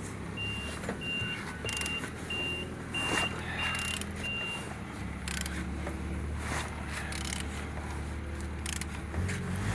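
9J40 engine being turned over by hand for a compression check, with irregular clicks and knocks from the tool and engine, over a steady low hum. In the first half, seven short high beeps come at a steady rate, about one and a half a second.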